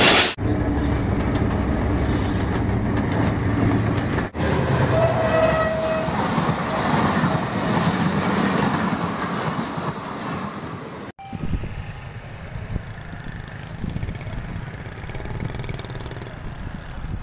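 Passenger train coaches rushing past close by at speed, wheels clattering on the rails, with a short train horn note about five seconds in. After a cut about eleven seconds in, the sound drops to a quieter, steady rumble.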